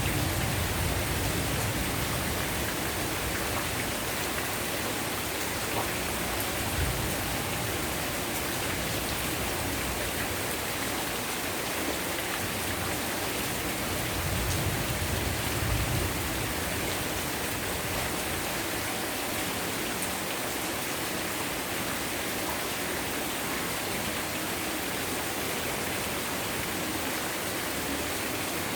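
Heavy rain pouring steadily, a dense even hiss of drops on surfaces. A low rumble swells briefly about a second in and again midway.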